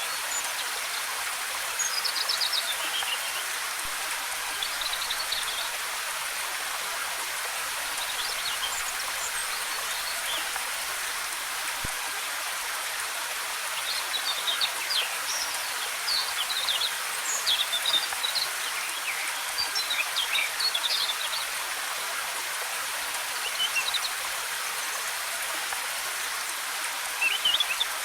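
Steady rush of cascading waterfall water, with forest birds chirping over it in short quick calls that come in bunches: a few about two seconds in, a long run in the middle, and a few more near the end.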